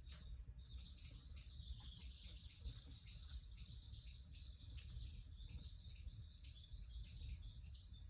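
Small birds chirping quickly and continuously, high-pitched, over a faint low rumble, with a few faint clicks.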